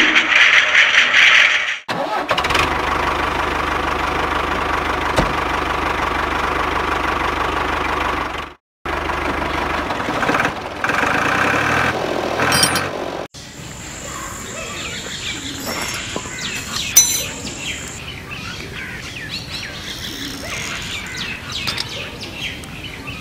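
A small motor running steadily in several short clips cut one after another, with brief silent gaps between them. In the later, quieter part, birds chirp in the background.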